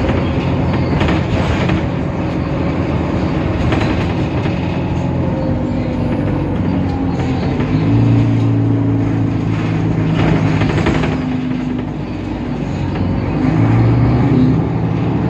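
Temsa Avenue LF city bus under way, its DAF PR 228 diesel engine and ZF 6AP 1400B automatic gearbox running with a continuous drone. Low steady tones in it swell and change pitch a few times as the bus pulls and shifts, loudest about eight, ten and fourteen seconds in.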